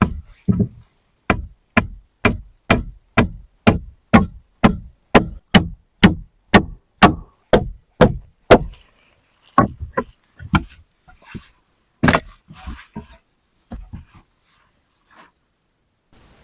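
Repeated heavy blows of a hand tool on wood, about two strikes a second in a steady rhythm, then slowing to a few scattered strikes and stopping.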